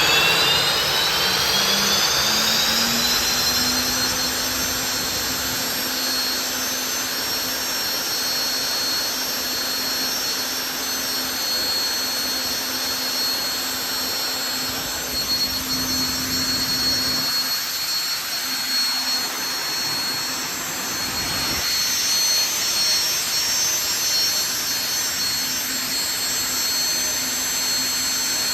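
Lycoming T55-L-7C turboshaft engine running: its whine rises for the first few seconds as it spools up, then holds at a steady high pitch over a constant rush of turbine noise.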